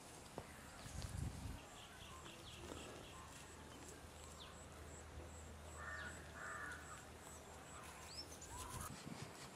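Quiet rural ambience with birds calling: two louder calls about six seconds in and a short rising chirp near the end.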